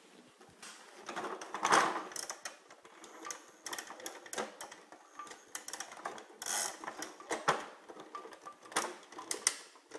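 Plastic toy garbage trucks being handled and their moving parts worked by hand, with irregular clicks, knocks and rattles.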